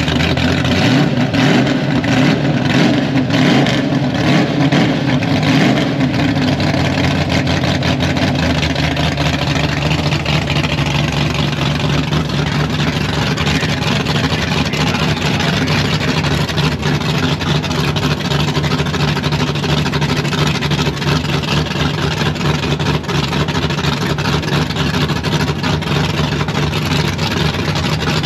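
Fox-body Ford Mustang drag car's engine idling loudly at the starting line, with a rough, pulsing note for the first several seconds and a steadier drone after that.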